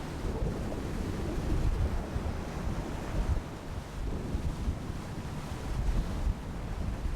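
Wind buffeting the microphone in uneven gusts, over the wash of waves alongside a sailing catamaran under way.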